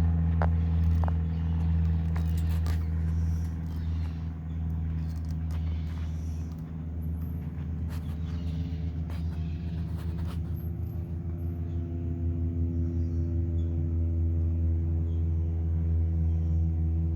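A motor engine running steadily, a low rumble with a pitched hum that holds the same pitch throughout. A few faint clicks come in the first couple of seconds.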